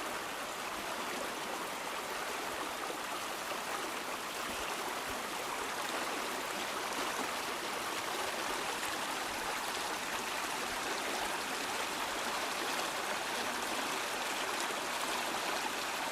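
Fast-flowing stream rushing and splashing over rocks: a steady wash of water noise.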